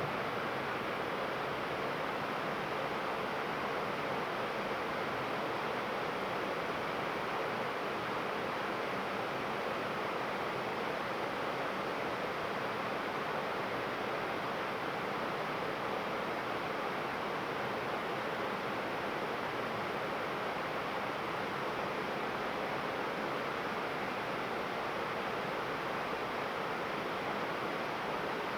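Heavy rain pouring steadily, an even rushing noise that never lets up.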